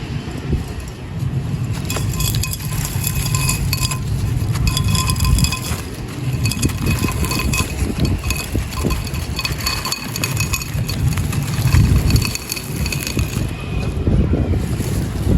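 Dry, gritty clay pot of sand and cement being crushed and crumbling, a continuous crunching with many small sharp cracks.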